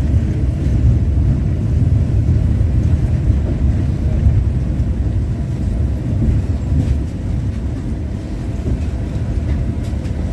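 LVS-86K articulated tram running between stops, heard from inside the passenger saloon: a steady low rumble of wheels on rails and traction gear.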